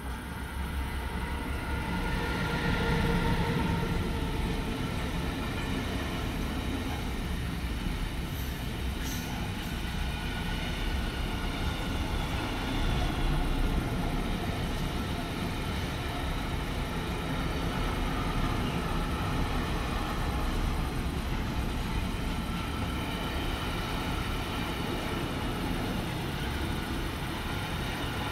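A train passing by: a sustained rumble of wheels on rail, with several steady high whining tones over it.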